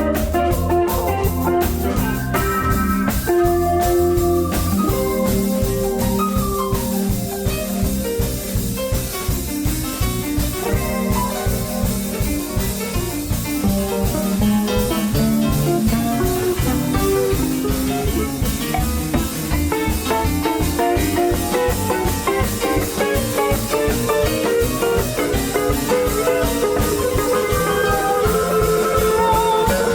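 Live rock band playing, with guitars, bass, drum kit and keyboards keeping a steady beat. Recorded through a camcorder's built-in microphone.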